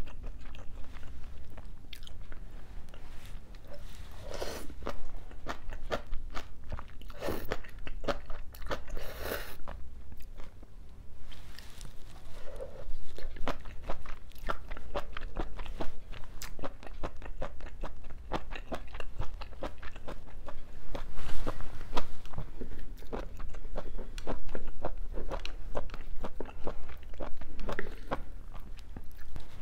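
Close-miked chewing of a mouthful of spicy braised seafood and bean sprouts: irregular wet clicks and crisp crunches, a little louder in a few spells.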